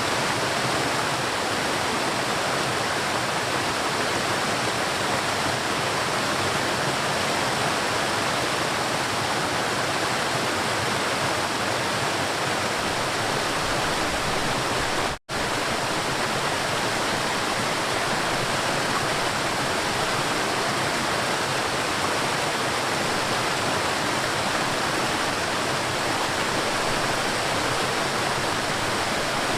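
River water rushing steadily, a dense even wash of flowing-water noise. It cuts out for an instant about halfway through, then resumes unchanged.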